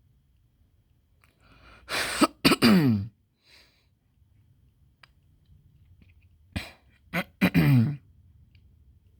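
A person coughing in two short bouts about four seconds apart. Each bout ends in a voiced sound that falls in pitch.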